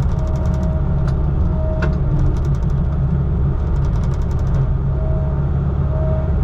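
Steady low drone of a motor vehicle's engine and running noise. Three short groups of rapid high ticks stand out, about a second in, near the middle and about four seconds in.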